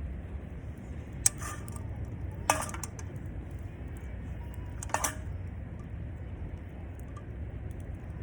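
Cookware or metal utensils clinking three times, each a sharp knock with a short ring, over a steady low rumble.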